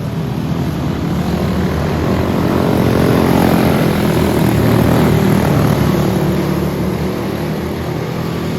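Small single-cylinder racing kart engines of a junior Animal-class field passing by at speed. The engine sound swells to a peak about halfway through, bending slightly in pitch, then fades as the karts pull away.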